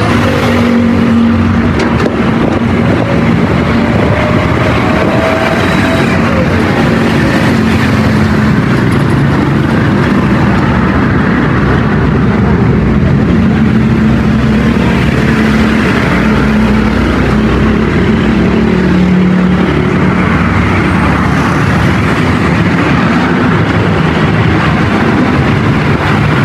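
A vehicle engine running steadily amid road noise, its pitch shifting slowly up and down.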